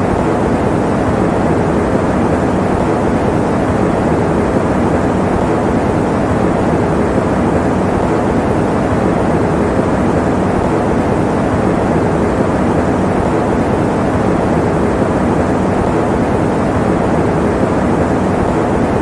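Electric fan running steadily: a constant, even rush of air noise, mostly low and middle in pitch with little hiss on top.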